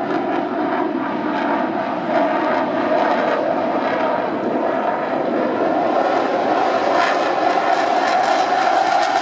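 Dassault Rafale C fighter's jet engines running as it flies by, a steady loud rush with a whining tone that rises slightly in pitch; it grows louder about two seconds in.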